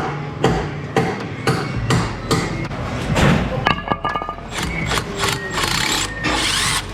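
Repeated metallic knocks and clanks from hand tools at work on a car, with a brief metallic ringing near the middle.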